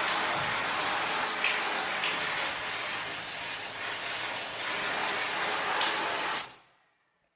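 A forceful jet of water spraying onto and through an air conditioner's fine mesh filter sheet, washing the dust out: a steady spray that fades out near the end.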